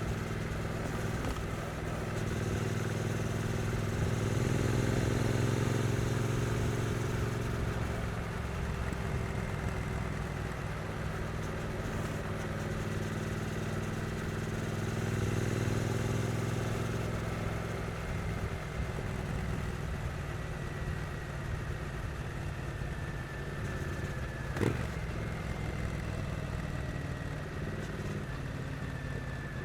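Triumph Street Twin's 900 cc parallel-twin engine running at moderate revs while riding, swelling gently twice as the throttle opens and easing off between. Near the end there is one sharp knock.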